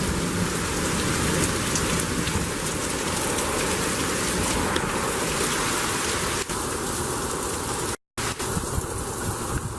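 Heavy thunderstorm rain pouring down, with gusty wind, making a steady dense hiss. The sound cuts out for an instant about eight seconds in, then carries on a little softer.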